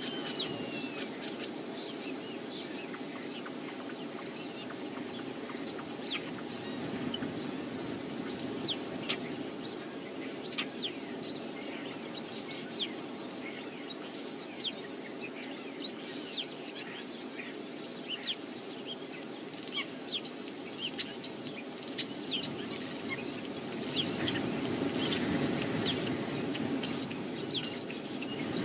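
Small birds chirping: many short, sharp, high notes, coming louder and about once a second in the second half. A steady low rush of wind runs underneath.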